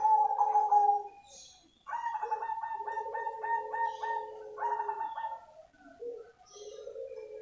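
Perkutut cemani (black zebra dove) cooing: a burst of coos at the start, then a quick string of short repeated notes at about four a second, then longer drawn-out coos near the end.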